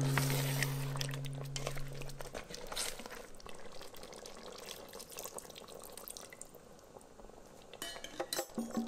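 A utensil stirring chicken, potatoes and carrots in the stainless-steel inner pot of an Instant Pot, with scattered clinks and scrapes against the metal and wet sloshing of the sauce. The clinks are busiest in the first three seconds and come again near the end, with a quieter stretch between.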